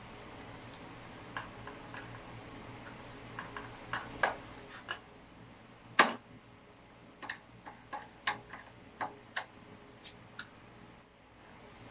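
Irregular light clicks and taps of hard objects being handled, with one sharper click about six seconds in, over a faint steady hum.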